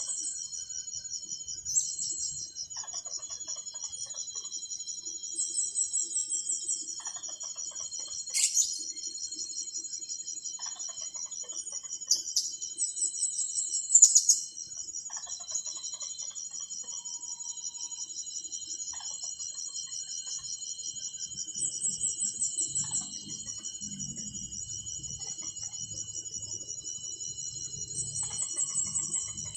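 Insects trilling in a steady, fast-pulsing, high-pitched drone. Short higher chirps come in about every seven or eight seconds, and there are a few sharp clicks.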